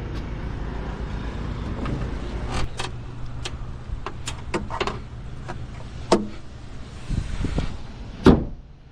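A series of clicks and knocks from handling the Hyundai Creta's body, over a steady low hum, then one loud slam about eight seconds in, after which the hum is muffled.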